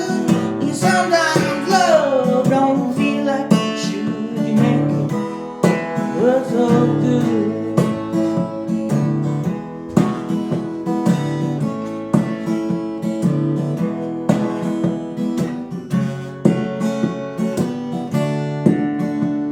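Acoustic guitar strummed in a steady rhythm as an instrumental passage between sung lines. A sung note slides down and fades in the first three seconds.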